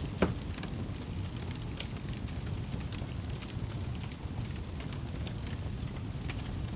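Wood fire crackling in a fireplace: a steady low rumble of flames with scattered sharp pops and snaps, the loudest a pop just after the start.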